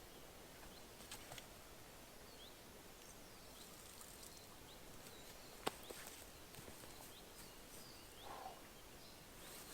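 Quiet forest ambience with faint, scattered short bird chirps. A single sharp click sounds about halfway through, with a brief rustle near the end.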